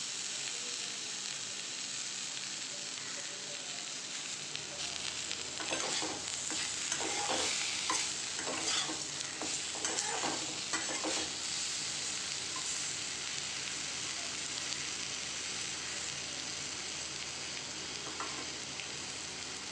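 Raw banana slices sizzling in hot oil in a metal kadai, with a flat spatula scraping and knocking against the pan as they are stirred, the scraping busiest in the middle stretch.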